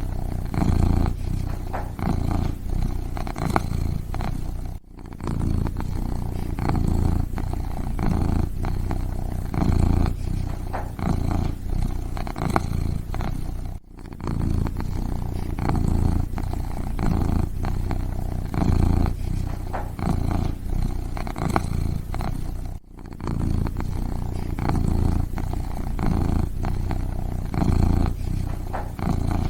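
Kitten purring steadily, a low pulsing rumble, with three brief breaks about nine seconds apart.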